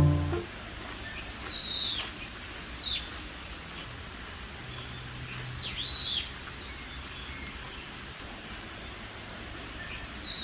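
A steady, high-pitched insect chorus runs throughout, with a bird calling over it: pairs of short whistled phrases that dip in pitch at the end, heard three times.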